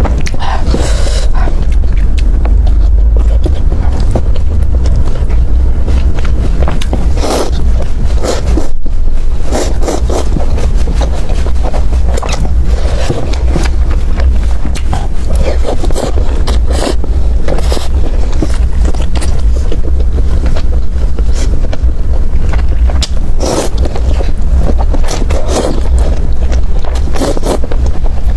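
Close-miked eating sounds: chewing with irregular crisp crunches, over a steady low rumble.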